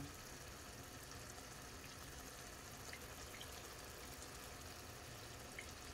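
Faint, steady sizzle of chicken-and-zucchini patties frying in oil in a pan, with a few small pops.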